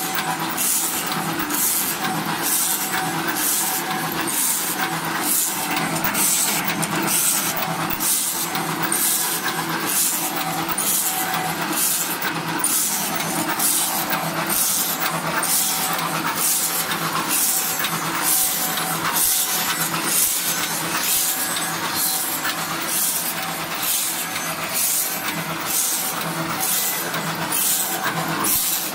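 Wooden twin-chopstick forming and sharpening machine running: a steady machine hum with a sharp, high stroke repeating evenly about one and a half times a second.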